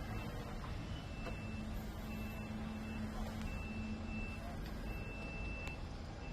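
Truck reversing alarm beeping in a steady pattern, a beep a little under a second long about every second and a half, over the low rumble of the truck's diesel engine running.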